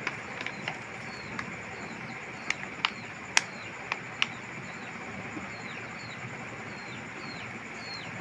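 A small bird chirping over and over, short calls with a falling hook about twice a second, over a steady background hiss. Between about two and a half and four seconds in come a few sharp clicks as a plastic cooking-oil bottle is handled and poured over a metal pan.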